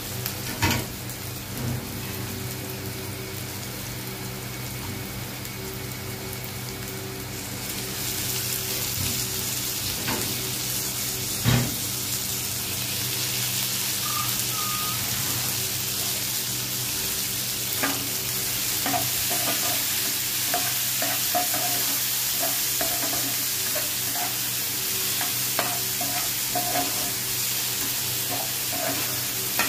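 Chopped onion, green chilli and tomato sizzling in oil in a non-stick frying pan, the sizzle growing louder about eight seconds in. Two sharp knocks come early on and near the middle, and in the second half a spatula scrapes and taps the pan again and again as it stirs.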